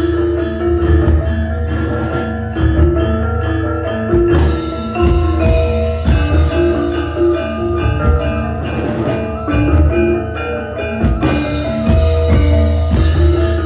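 Javanese gamelan ensemble playing a gending: struck bronze metallophones ring out a melody of repeated notes over drum strokes, with a strong steady low hum underneath.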